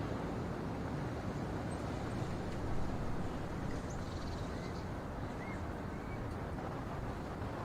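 Strong wind buffeting the microphone through an ineffective windshield, a steady low rumbling hiss during a windstorm.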